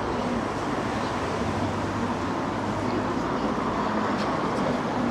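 City street ambience: steady traffic noise with a low, even engine hum underneath.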